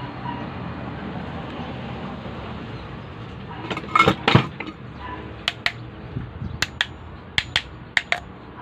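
Electric fan motor's rotor shaft pushed up and down in its freshly oiled bushings, giving sharp metallic clicks, mostly in pairs, as it knocks against its end stops: a check of the shaft's end-play clearance. The clicks start a few seconds in and come about once or twice a second.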